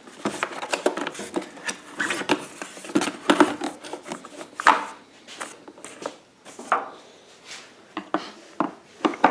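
Irregular clicks, knocks and rubbing from hands and tools working on the plastic housing of a Honda EU1000i generator while it is being taken apart.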